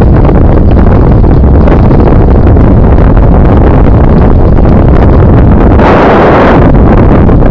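Heavy wind buffeting on the microphone of a camera carried on a moving bicycle, loud and steady, with a brief louder rush about six seconds in.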